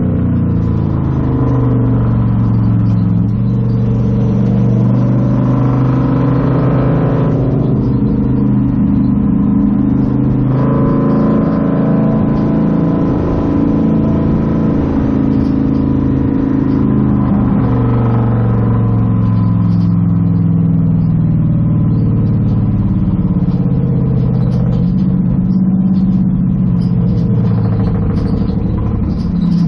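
Ford Crown Victoria race car's V8 engine heard from inside the stripped cockpit under racing load, its pitch climbing as it accelerates and dropping as the throttle comes off, several times over.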